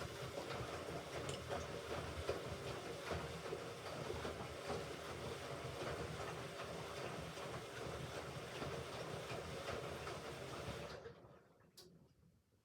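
Hoover Ecologic Computer Washer 1300 washing machine running a burst of about eleven seconds on its rinse and spin program: it starts suddenly with a rattling rumble full of small ticks, then stops and dies away.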